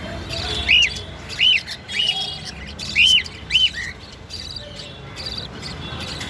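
Budgerigars chirping: five short, loud, rise-and-fall chirps in the first four seconds over softer high chatter, then only the chatter.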